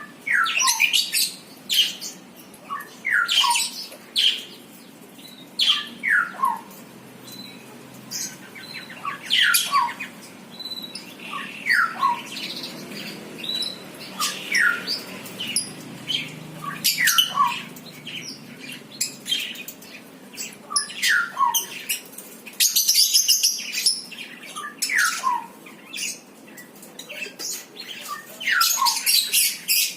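Birds calling and chirping. A falling call repeats every two to three seconds, each followed by a short lower note, over clusters of thin high chirps.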